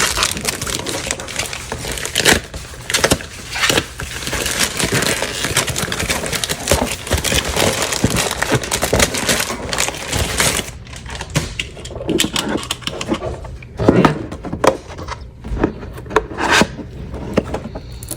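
A mail package being opened by hand: dense crackling, tearing and scraping of tape and packaging for about ten seconds, then sparser handling clicks and knocks.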